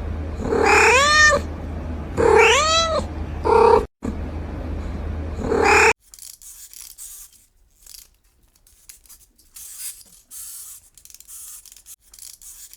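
Domestic cat meowing: about four meows, each rising then falling in pitch, two long ones followed by two shorter ones, over a low steady hum. About halfway through the sound drops suddenly to a quiet stretch with only faint hiss and small scattered sounds.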